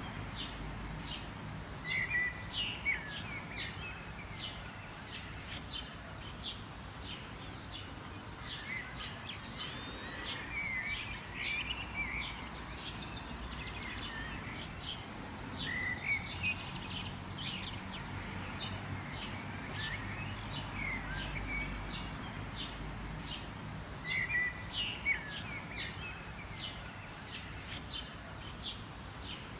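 Several birds chirping and singing: quick high chirps repeat all through, with louder warbling phrases about two seconds in, around eleven and sixteen seconds, and again near the end, over a low steady background rumble.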